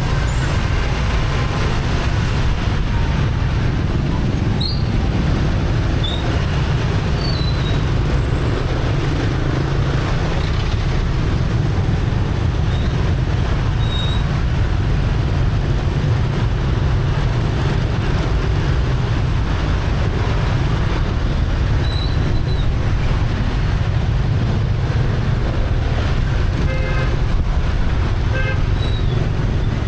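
Busy street traffic heard from a moving motorbike: a steady low rumble of engines and road noise, with short horn toots now and then, a few of them near the end.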